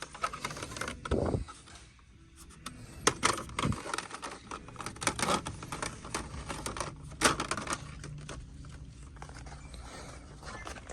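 Irregular clicks, clacks and light rattles of small hard objects being handled, thickest in the first several seconds, over a low steady hum.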